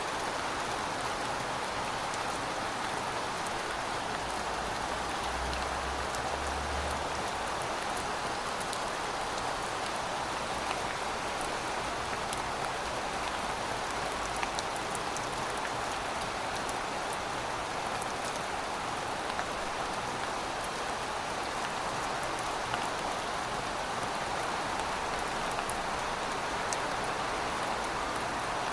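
Heavy rain falling steadily: an even hiss with scattered drop ticks on hard surfaces. A faint low rumble sits under it about five seconds in.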